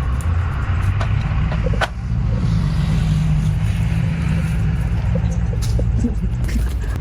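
An engine running steadily at a low, even speed, with a few sharp clicks or knocks, one of them a little under two seconds in.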